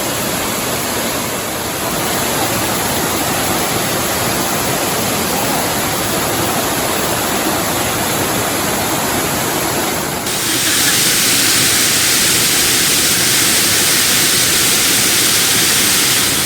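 Waterfall rushing steadily. About ten seconds in the sound changes abruptly to a louder, hissier rush.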